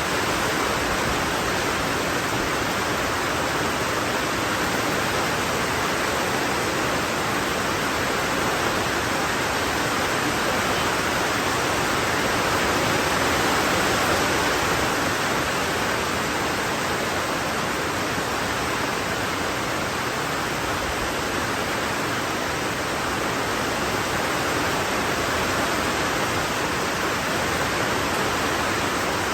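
Heavy rain falling: a loud, steady, even hiss that does not change.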